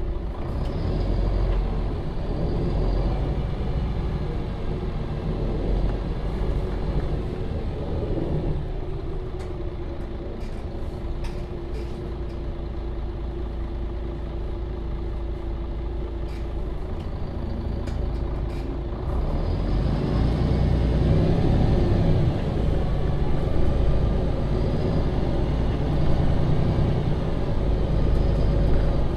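MAN Lion's City (NL 283) city bus running under way, with the diesel engine and transmission droning throughout. It accelerates with rising whines near the start, eases to a quieter steady drone through the middle, then pulls harder and louder again about two-thirds of the way through, with rising whines as it speeds up. Short rattles and clicks come through now and then.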